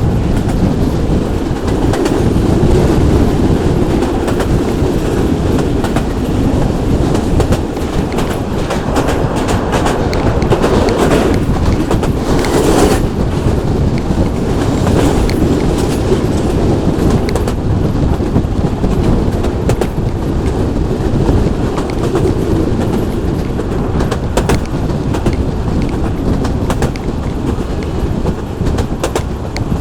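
Local passenger train running along the track: a steady rumble, with the wheels clicking over the rail joints and a brief brighter rush of noise near the middle.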